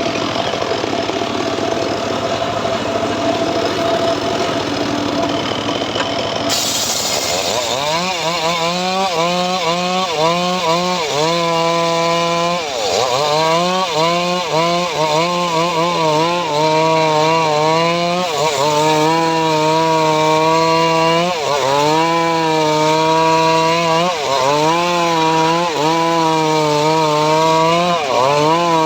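Homemade engine-driven sawmill saw cutting teak. A steady running noise comes first; then, about seven seconds in, a strong humming whine begins whose pitch sags and recovers every second or two as the saw works through the wood under load.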